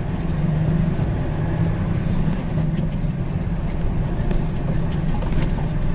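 Haul truck's engine running steadily as the truck drives down the road, a low even hum.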